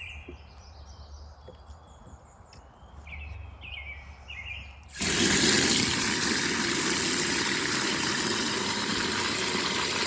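Small birds chirping faintly. About halfway through, a loud, steady rushing noise starts suddenly and holds.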